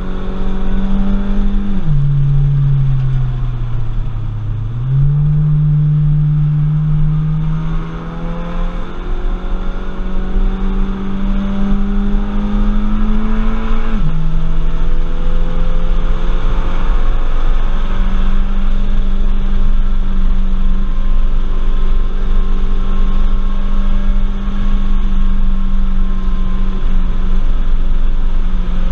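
Audi TT's engine at high revs on a race track, heard from inside the cabin over road and wind noise. The note sags as the driver lifts off early on, climbs again under full throttle, drops sharply with an upshift about halfway through, then holds high for the rest.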